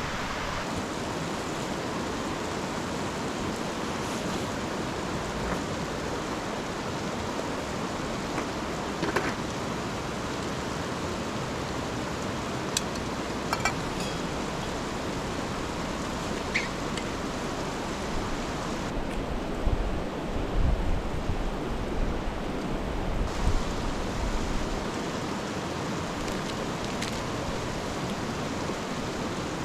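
Steady rush of fast-flowing river water, running high after heavy rain. A few faint clicks, and low rumbling knocks for a few seconds about two-thirds of the way through.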